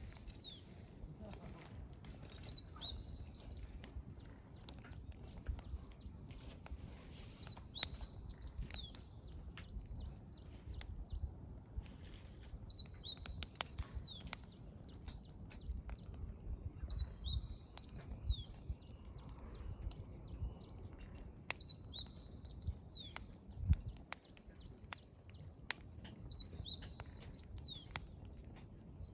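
A songbird repeats the same short song about every four to five seconds: a few high falling notes and then a thin trill. Under it a wood fire crackles and snaps with sharp pops.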